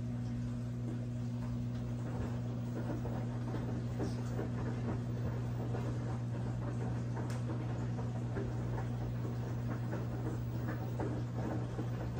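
Brastemp 17 kg washing machine running mid-cycle: a steady low motor hum with an irregular churning rustle over it.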